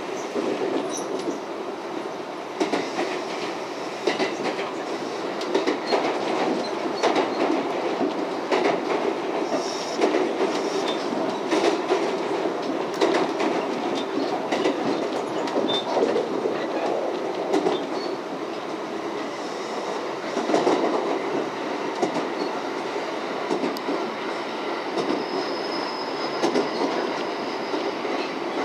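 Running noise of a passenger train heard from inside the carriage: a steady rumble of wheels on rail with frequent clicks over rail joints and points.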